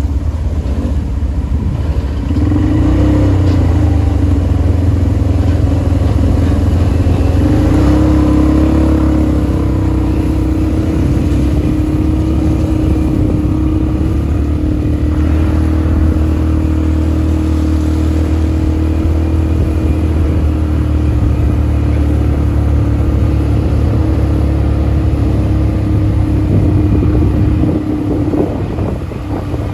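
ATV engine running steadily under way, its pitch climbing briefly twice early on and easing off near the end.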